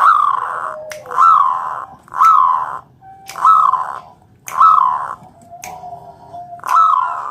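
Zebra dove (perkutut) cooing: a series of short coo notes, each rising then dipping in pitch, about one a second with a gap near the middle, and sharp clicks between them.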